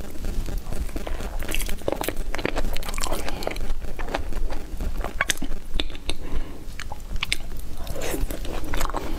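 Close-miked mouth sounds of eating soft durian flesh: a bite, then chewing with many small, quick mouth clicks.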